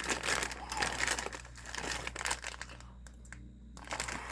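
Plastic candy packaging crinkling as it is handled, busiest in the first couple of seconds, dying away, then a brief crinkle again near the end.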